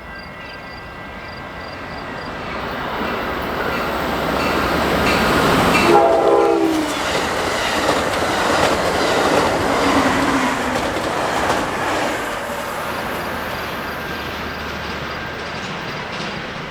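A train passing: the rolling noise builds to a peak about six seconds in, where a short horn blast sounds and drops slightly in pitch as the locomotive goes by. The rumble and rattle of the passing cars then carries on.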